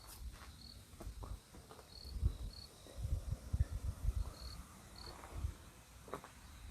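A cricket making short, high chirps at irregular intervals of roughly one to two seconds. Under it come a few faint clicks and a patch of low rumbling thumps in the middle.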